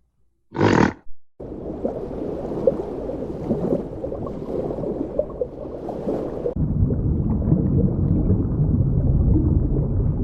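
A large animal roaring: one short loud call about half a second in, then a long low rumbling noise that changes about six and a half seconds in.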